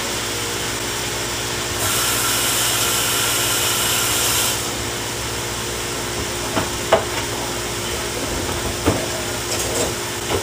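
Chicken strips in soy-ginger marinade sizzling in a hot nonstick wok, a steady frying hiss that swells louder for a couple of seconds about two seconds in, just after fresh marinade has gone into the pan. A few light clicks sound in the second half over a faint steady hum.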